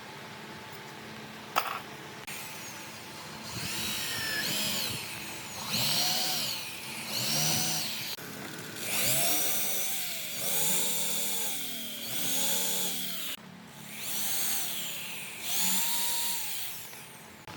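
Handheld electric power tool, drill-like, run in about nine short bursts, its motor whining up and back down in pitch each time, after a sharp click near the start.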